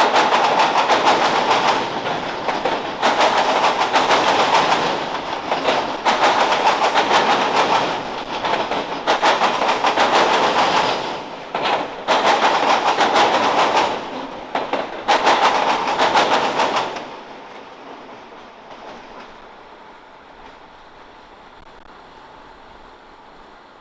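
CSX freight train's cars rolling past, their wheels clattering over rail joints in clusters of quick clicks. About seventeen seconds in the last cars clear and the clatter drops away to a faint steady noise.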